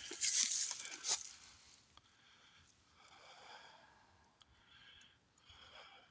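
Footsteps crunching through dry leaf litter, stopping about a second in. After that only a few faint, brief sounds remain.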